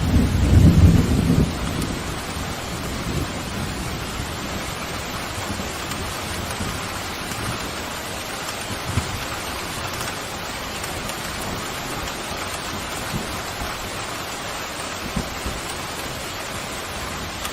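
Steady pouring rain with a low thunder rumble that dies away in the first two seconds, and a few louder drops ticking now and then.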